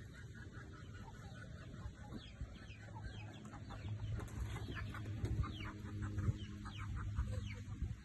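Parrot-beak long-tail (Kilimooku) chickens clucking, many short calls in quick succession, over a low rumble that grows louder about halfway through.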